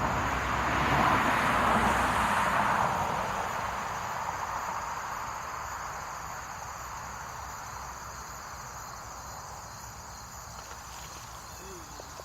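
A steady, high-pitched chorus of insects, with a broad rushing noise that swells over the first few seconds and then slowly fades away.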